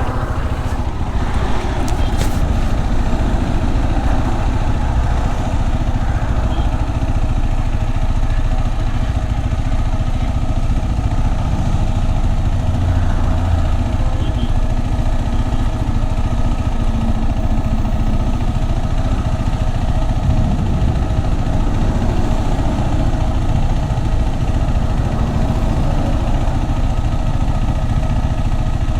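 KTM 390 Adventure's single-cylinder engine running steadily while the motorcycle is ridden, with wind and road noise over it.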